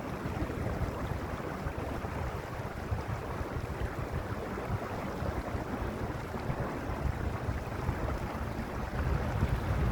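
Mountain stream rushing steadily over its bed, an even wash of water noise with a deep rumble that grows a little louder near the end.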